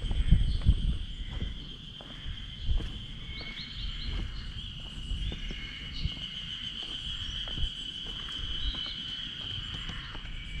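Steady high-pitched insect chorus, with a few short bird chirps over it. Low thumps and rumble are heard in the first second.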